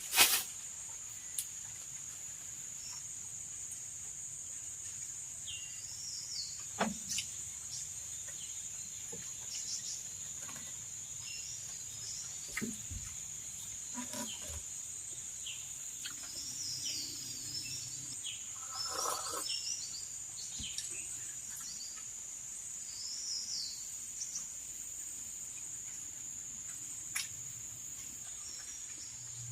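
A steady high insect drone with birds giving short, repeated downward-sweeping chirps every few seconds. There is a sharp knock right at the start and a few fainter clicks and knocks later.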